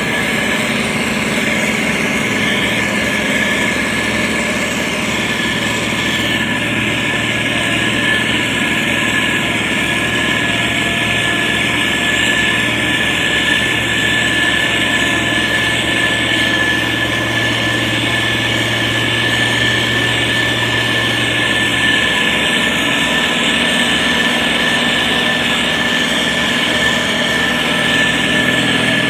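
SANY STG190C-8S motor grader's diesel engine running steadily under load, with a constant high-pitched whine over the engine noise.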